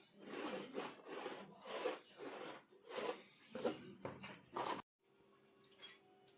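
Repeated rough rubbing or scraping strokes, about two a second, which stop abruptly near the end, leaving a faint steady hum.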